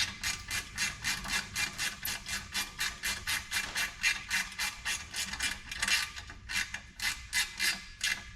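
Rapid, regular rasping or clicking strokes from hand work on a part, about five a second and evenly paced.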